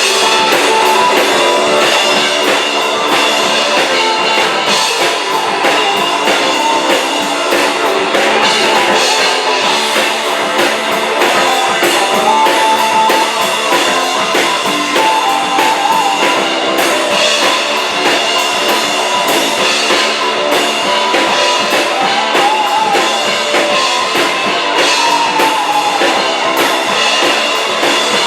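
Rock band playing live, electric guitar over a drum kit in an instrumental passage without vocals.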